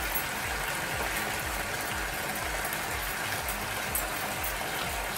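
Sliced potatoes frying in hot vegetable oil in a pan, a steady sizzle. Background music with a steady low beat underneath.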